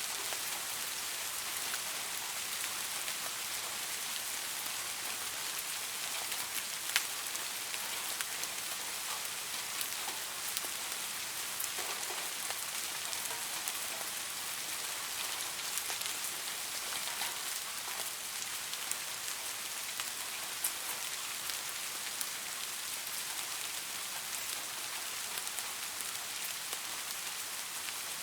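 Steady rain falling, a dense even hiss with scattered sharp drop ticks; one louder drop lands about seven seconds in.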